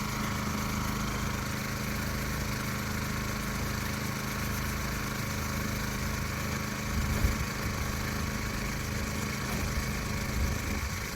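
An engine idling steadily, with a short louder knock about seven seconds in.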